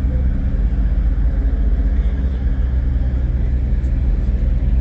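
Diesel semi-truck engine idling with a steady low rumble.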